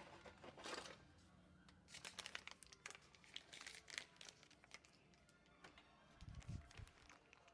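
Faint crinkling and rustling of objects being handled, with scattered small clicks and a dull low bump about six seconds in.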